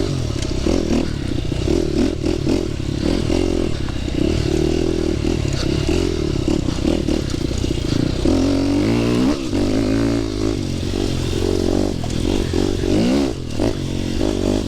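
Dirt bike engine running on a trail ride, its pitch rising and falling as the throttle is opened and eased, with frequent knocks and rattles from the bike over rough ground.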